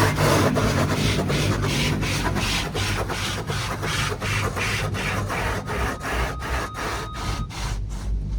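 Rotating tunnel car wash brushes slapping and rubbing over the car body, heard from inside the car: an even beat of about three slaps a second that fades out near the end.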